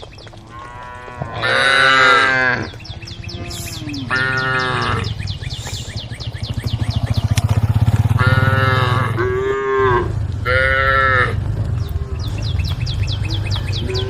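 Several cows mooing, about seven long calls that bend up and down in pitch, some following close on one another. A steady low rumble runs underneath.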